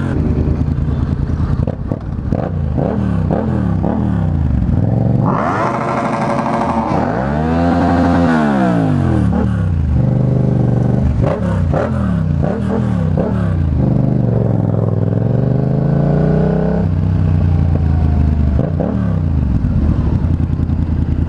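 Motorcycle engine accelerating through the gears: the pitch climbs and drops back with each upshift, over and over. A louder engine note rises and falls near the middle.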